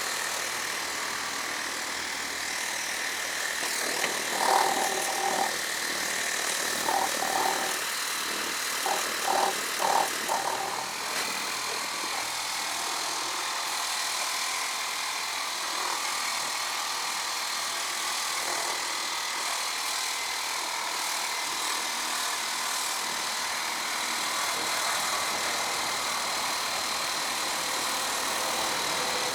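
Lippert Power Pro Max battery-powered portable pressure washer running, its pump motor giving a steady high whine over the hiss of the water spray. A few short, louder pulses come in the first ten seconds.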